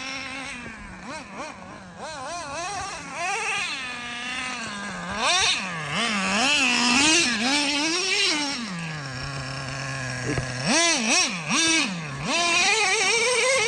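Nitro RC truck's small two-stroke glow engine revving up and down over and over as it accelerates and lets off, the pitch swooping high and low. Partway through it settles on a steady low note for a second or so before revving again.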